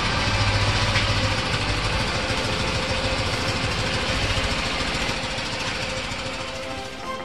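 Freshly rebuilt Fiat 126p air-cooled two-cylinder engine idling steadily with a fast, even beat, a little quieter near the end. The engine is being run in.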